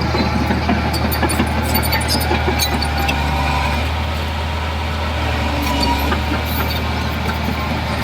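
Diesel engine of heavy earthmoving equipment running steadily with a deep hum, with light clinks and rattles now and then.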